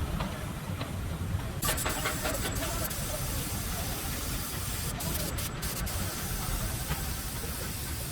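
A steady spraying hiss starts about a second and a half in, over a low rumble.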